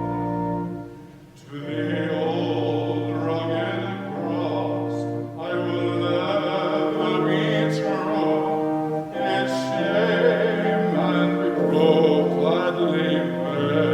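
Classical-style singing with accompaniment, in long held notes, with a short break between phrases about a second in.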